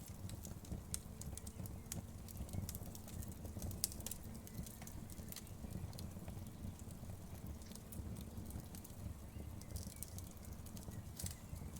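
Wood fire crackling in a fireplace: scattered sharp pops and clicks at irregular intervals over a low steady rumble of the flames, with one louder pop about four seconds in.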